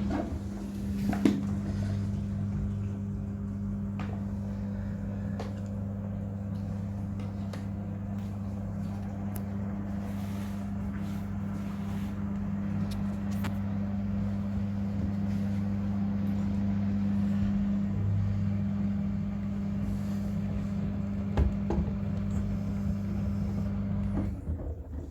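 Miele WCR 870 front-loading washing machine running its cotton cycle: a steady low mechanical hum with scattered light clicks and knocks, which briefly shifts about eighteen seconds in and stops just before the end.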